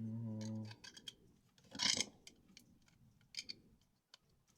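Plastic Lego bricks being handled and pressed together: scattered small clicks, with a louder rattle about two seconds in. A short steady hum at the very start.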